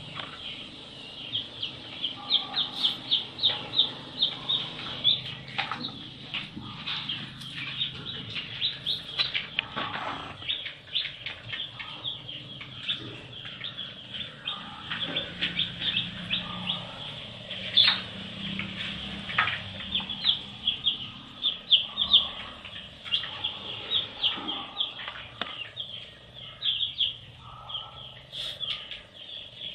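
A group of baby chicks peeping continuously: many short, high chirps overlapping one another, with a few soft knocks among them.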